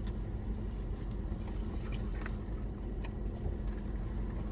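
Steady low hum inside a car cabin, with a few faint clicks and crunches of someone eating.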